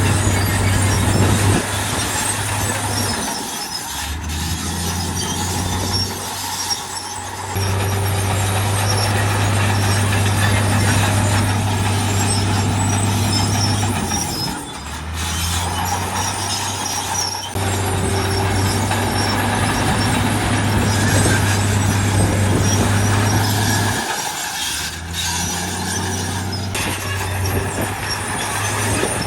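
Heavy diesel construction machinery running steadily, its low engine note dropping and shifting every few seconds as the load changes, over constant rough mechanical noise.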